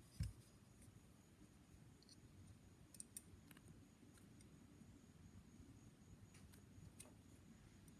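Mostly near silence with a soft low thump at the start and a few faint small clicks: a Sonora phonograph tonearm's greased pin and shaft being handled and fitted back together.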